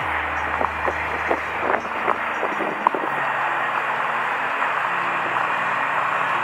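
Steady running of idling diesel trucks, with a scatter of light clicks in the first three seconds.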